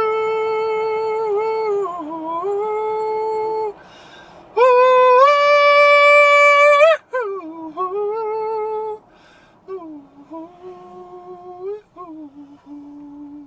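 Man singing long wordless "ooh" notes, sliding between pitches. The loudest and highest note comes about halfway through, and the last note near the end is lower.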